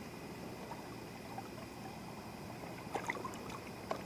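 Steady rush of a small river's running water, with a couple of small clicks or splashes near the end.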